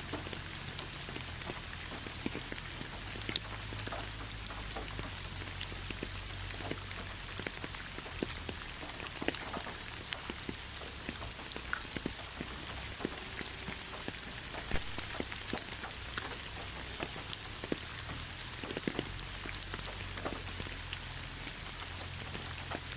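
Steady rainfall with many individual drops ticking and pattering on a surface.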